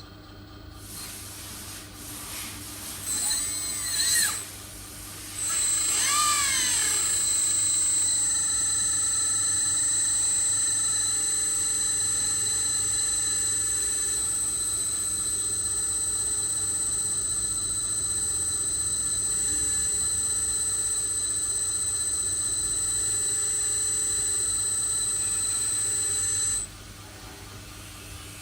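Electric motor of a 1/14 scale RC skip loader truck whining. Two short whirs rise and fall in pitch in the first seven seconds, then a steady high-pitched whine runs for about twenty seconds and cuts off suddenly near the end.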